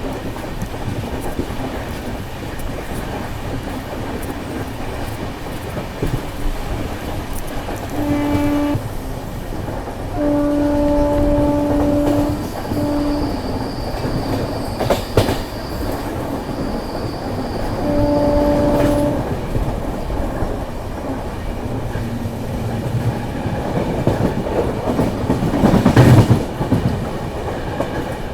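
Express train running at speed with wheels clattering over the rails, while the WAP-7 electric locomotive's horn sounds four times: a short blast, a long one, another short one, and a fourth several seconds later. A loud rush swells up near the end.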